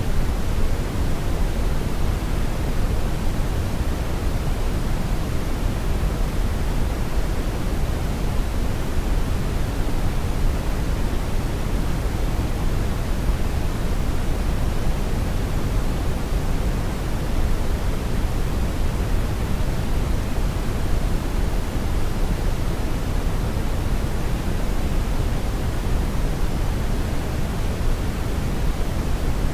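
Brown noise: a steady, even rumbling hiss, strongest in the low end and fading toward the highs, with no changes.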